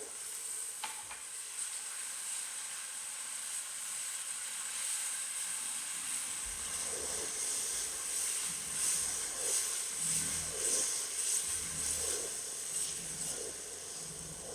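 White wine sizzling as it deglazes a hot cast iron pot of rice, onions and bell peppers. From about halfway, a spoon stirs and scrapes the bottom of the pot in repeated strokes.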